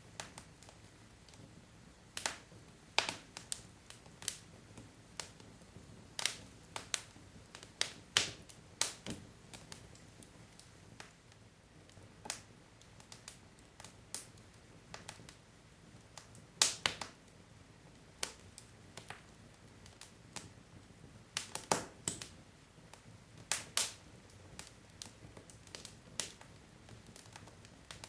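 Burning wood logs crackling in a fireplace: irregular sharp pops and snaps, sometimes several in quick succession, over a faint steady background.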